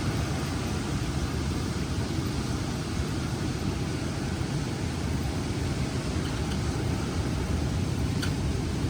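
Strong wind blowing in a steady rush, heaviest in the low end.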